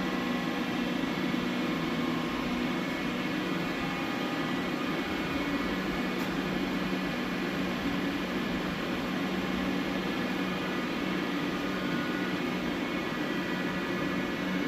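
Takisawa twin-spindle CNC lathe running on a test run: a steady mechanical hum made of many fixed tones, strongest low down, unchanging throughout.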